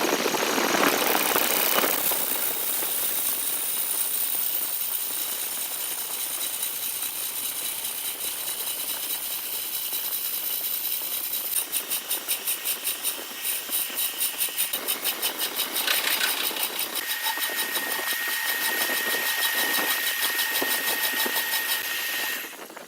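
Big wood lathe running with a turning tool cutting the spinning wood, a steady machine whine over the noise of the cut. For a few seconds in the middle the sound pulses rapidly, and it cuts off suddenly near the end.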